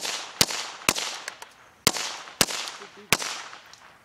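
.22 rifle firing six quick shots, the first three about half a second apart and the rest more spaced, each with a short echoing tail; the firing stops a little after three seconds in.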